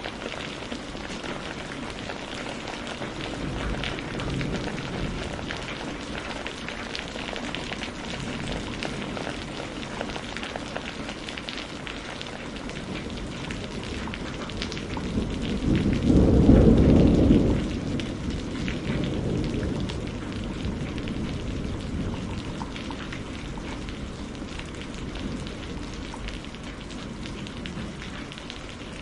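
Steady rain falling, with a thick patter of drops. Thunder rumbles at about sixteen seconds in, the loudest part, and dies away over the next few seconds.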